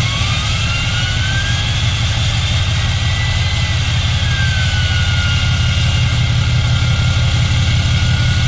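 Straight-piped Cummins diesel truck engine idling loud and steady just after a cold start. Its turbo gives a high whistle that climbs over the first few seconds, then eases down a little and holds steady.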